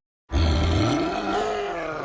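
A giant monster's deep, drawn-out roar-groan sound effect, the voice of a huge gingerbread man. It starts after a brief silence about a third of a second in, with its pitch sliding up and down.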